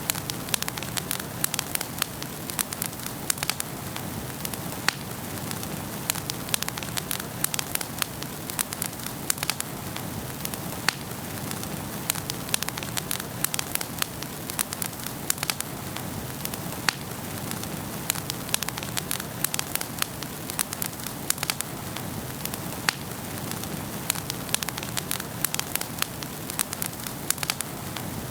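Wood fire burning in a fireplace: a steady hiss of flames with frequent sharp, irregular crackles and pops of burning logs.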